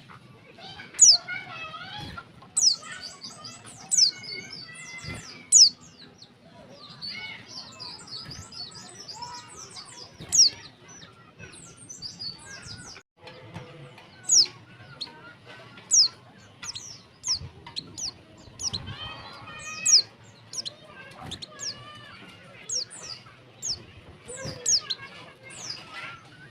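Female white-eye (pleci) calling: a run of sharp, high, falling chirps about every second or so, over softer continuous twittering.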